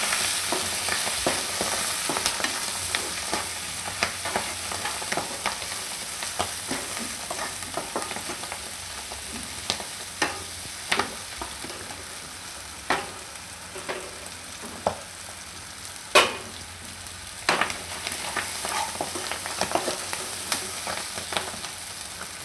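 Fenugreek leaves sizzling in oil in a nonstick wok while a spatula stirs them, with frequent short scrapes and taps of the spatula against the pan; a few louder knocks come in the second half, and the sizzle slowly fades.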